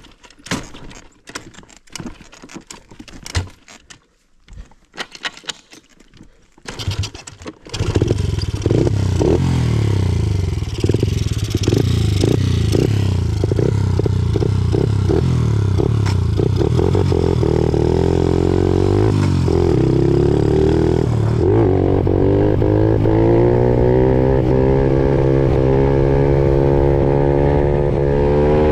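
Scattered clicks, knocks and scraping, then about eight seconds in a 50cc mini dirt bike engine is heard running loud and steady under way, its engine speed stepping and gliding up and down.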